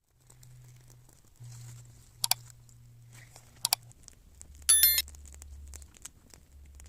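Two sharp metallic clicks a little under a second and a half apart, then a short bright bell-like ring, over a faint low hum.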